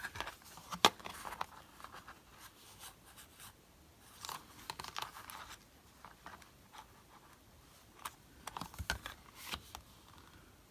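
Paper and card pieces being handled and shifted about on a craft desk: scattered light rustles and small taps, the sharpest tap about a second in.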